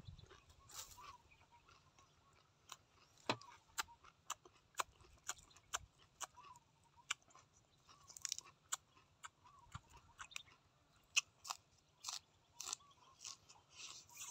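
Close-up eating sounds: chewing and crunching of grilled squid and raw greens, with many irregular sharp mouth clicks and smacks.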